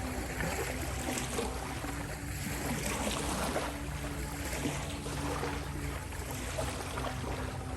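Ocean waves washing in and out in a continuous hiss, with a soft, steady low tonal drone held underneath.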